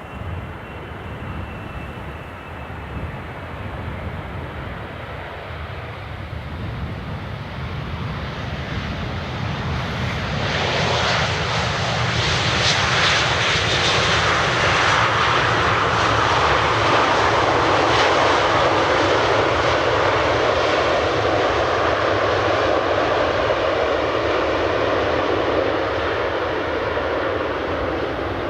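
Jet airliner's engines passing close, growing from a distant rumble to a loud, steady noise about ten seconds in, then easing a little near the end.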